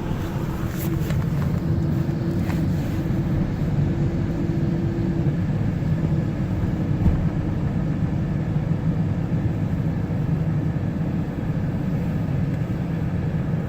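Steady engine and road rumble heard inside a moving car's cabin, with a faint hum that comes and goes.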